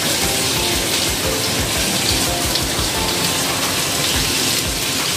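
Sliced onions and carrots sizzling in a nonstick wok, a steady hiss of frying.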